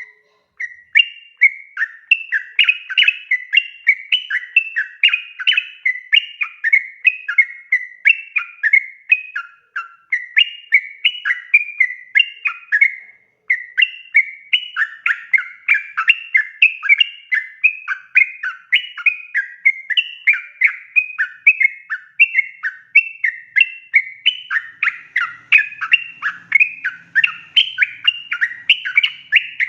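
Yellow-vented bulbul (trucukan) singing a long, fast, bubbling run of short chattering notes, several a second, with two brief pauses about ten and thirteen seconds in.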